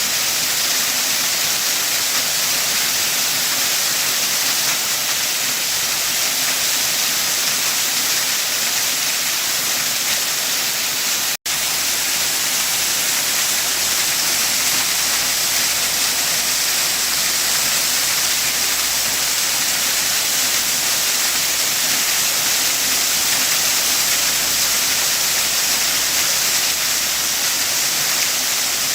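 Waterfall rushing steadily, a constant hiss of falling water, which cuts out for an instant about eleven seconds in.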